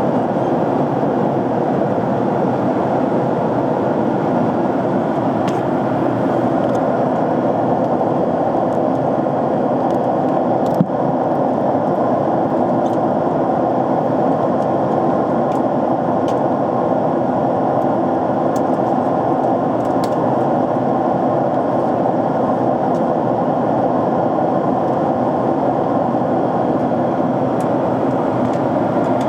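Airliner cabin noise in cruise: the steady rush of jet engines and airflow heard from a window seat, with a single brief click about eleven seconds in.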